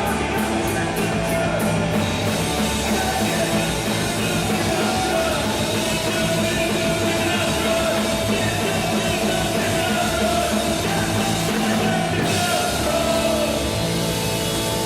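Punk rock band playing live: distorted electric guitar, bass guitar and drum kit.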